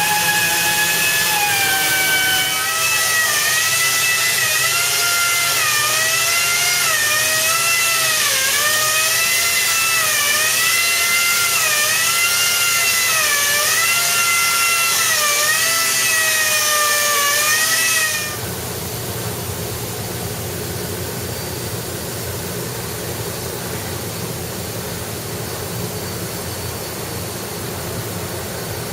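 Electric power tool motor running with a whine and a hiss, its pitch dipping about once a second as it takes load, then switching off about 18 seconds in; a quieter steady low hum of machinery continues after.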